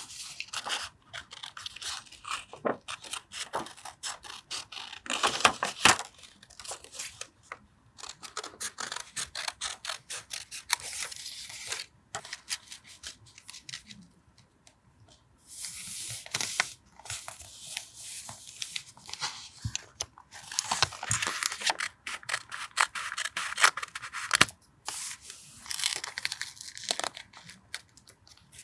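Paper being handled for collage, torn and cut with scissors: crisp crackling rustles and snips in bursts, with a few short pauses, one longer pause about halfway through.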